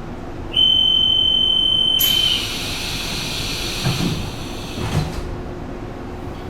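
Train door-closing warning: a steady high beep for about two seconds, then the sliding passenger doors closing with an air hiss and two thuds as they shut.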